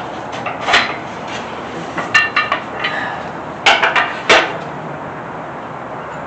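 Metal clanking and knocking: a sharp knock about a second in, a cluster of short ringing clinks around two seconds, and several louder clanks near four seconds, over a steady background hiss.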